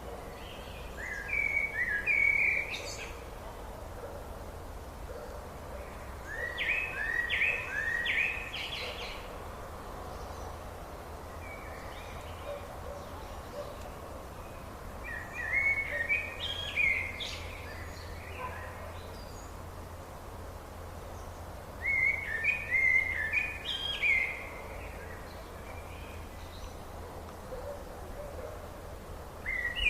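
A songbird singing the same short phrase of quick, stepped notes about every seven seconds, four times over, starting a fifth right at the end, over a steady low background rumble.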